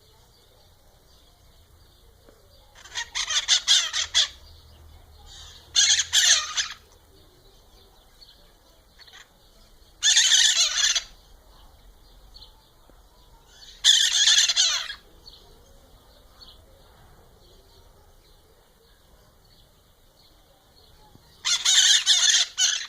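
Bird calls: five loud, harsh calls about a second long each, a few seconds apart, over a steady high-pitched hiss.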